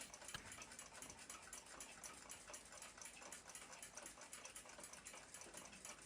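Faint, rapid, evenly spaced ticking of a running clock.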